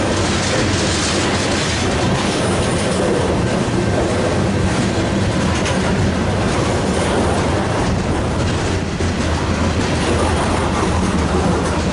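Train cars rolling past, with loud, steady wheel and rail noise.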